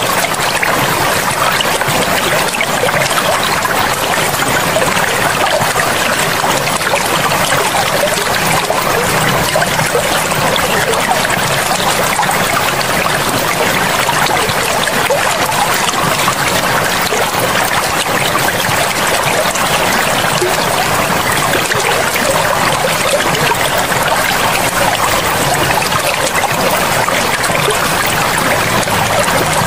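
Forest river flowing: a steady, even rush of running water.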